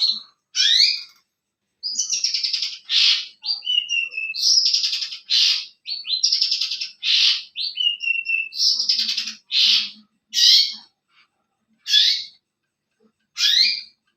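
A songbird singing loud, busy phrases of fast chattering and sharp sweeping whistles, thinning after about ten seconds to single sharp calls every second and a half or so.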